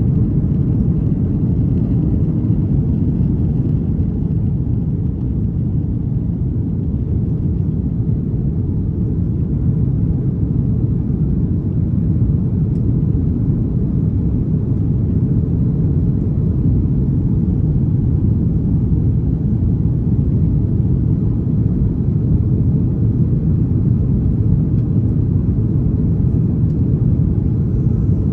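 Steady low rumble of an Airbus A330-200's engines and airflow, heard inside the passenger cabin during the takeoff climb.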